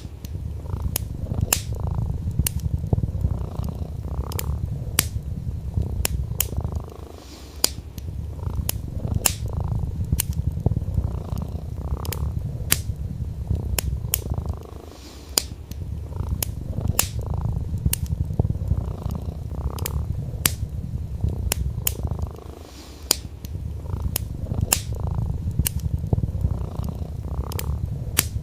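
Domestic cat purring in a steady low rumble that pauses briefly about every 7 to 8 seconds. Over it, a wood fire crackles with frequent sharp pops.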